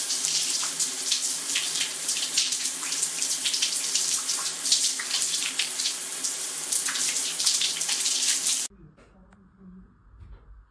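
Running water, a steady rush with a faint hum beneath it, that stops abruptly about nine seconds in.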